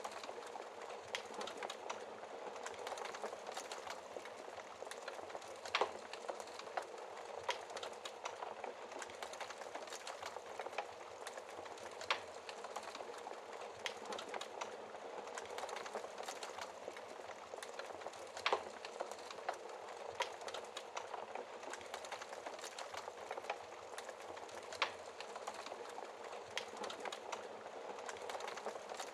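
Wood fire crackling, with frequent small clicks and a few louder sharp pops, over a steady hiss of rain.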